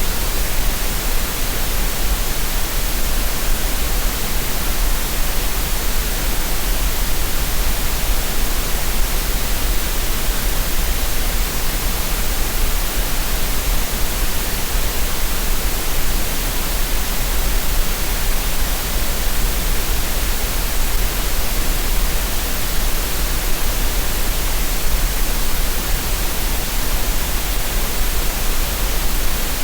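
Green noise: steady, unchanging synthetic noise, an even hiss with a strong low rumble beneath it.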